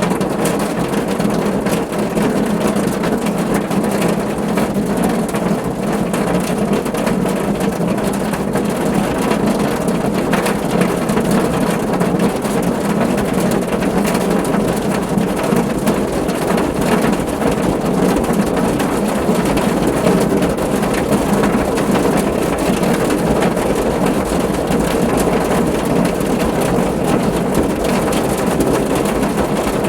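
Steady rain falling on a car's roof: a dense, even patter of many small drop impacts over a low, full rumble, with no letting up.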